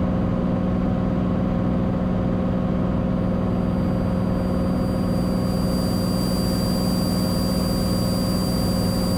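Cessna 182's piston engine and propeller running steadily in flight, a constant drone with a strong low hum that holds the same pitch and level throughout.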